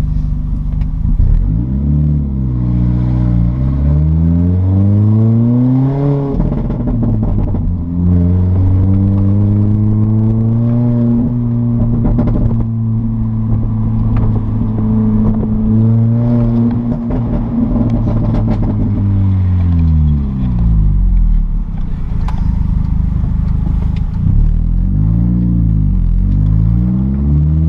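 Supercharged four-cylinder engine of an R53 Mini Cooper S with the muffler deleted (straight-piped), revving up through the gears, then holding a steady cruise. The engine note drops off about twenty seconds in and climbs again near the end.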